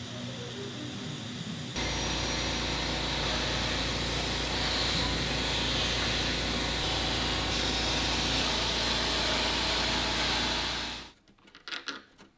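A powered workshop machine starts about two seconds in, runs steadily with a low hum and a strong hiss for about nine seconds, then cuts off. A few light knocks follow near the end.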